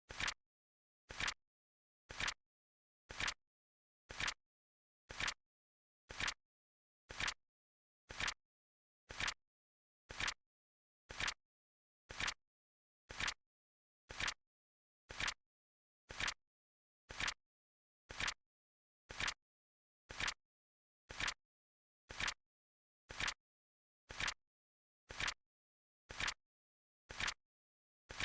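Flip-clock flip sound effect: a short, sharp click once a second, evenly spaced, with silence between.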